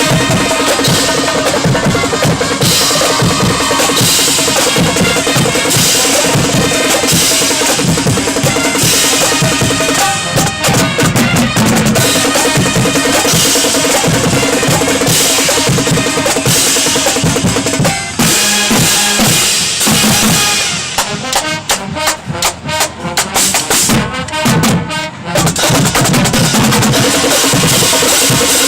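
High school marching band playing loudly, its drumline of snare, tenor and bass drums and cymbals to the fore. Near the end the sustained playing gives way to separate sharp drum hits with short breaks between them.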